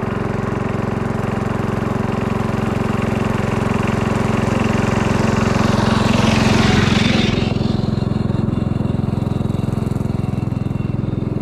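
Small gasoline engine running steadily with fast, even firing pulses, briefly louder about six to seven seconds in.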